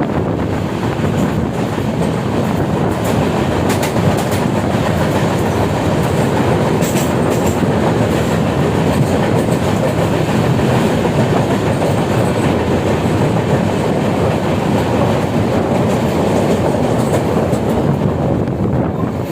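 Moving train: a steady rumble and rattle of the carriages running on the rails, with a click from the wheels now and then.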